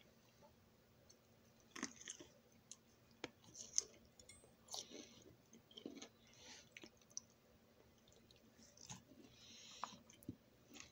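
A person chewing a mouthful of broccoli close to the microphone: quiet, irregular crunches and wet mouth clicks.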